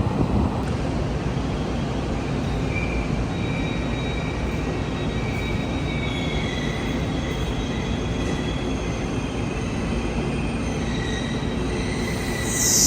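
Taiwan Railways train running on the track with a steady rumble, thin high wheel squeals coming in a few seconds in, and a loud high-pitched burst near the end.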